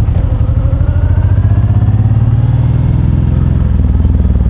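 Honda VTX1800's big V-twin engine running under way, its revs rising steadily over the first couple of seconds, then easing off near the end.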